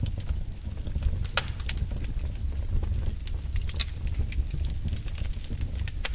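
Wood fire burning in a fireplace, crackling with irregular sharp snaps and pops over a low steady rumble.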